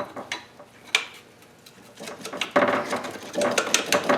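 Metal hand tools knocking and clinking against the engine while working a stuck crank pulley loose: two sharp knocks, a quieter moment, then a burst of rapid metallic clicking and rattling from about two and a half seconds in.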